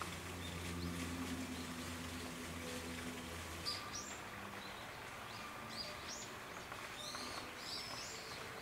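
Small birds chirping: short, high, repeated calls that begin about four seconds in and grow busier toward the end. Under them is a low steady hum, which fades out before the chirping starts.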